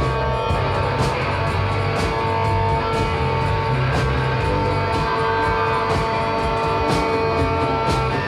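Live rock band playing an instrumental stretch: strummed electric guitars over steady held notes, with a drum or cymbal hit about once a second.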